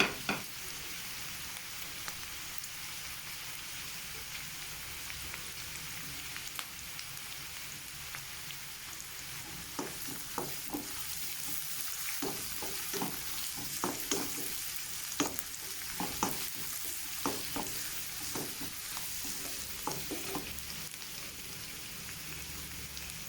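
Chopped carrots, beans and spring onion whites sizzling in hot oil in a pan over high heat. From about ten seconds in, a spatula clicks and scrapes against the pan in a run of irregular strokes as the vegetables are tossed.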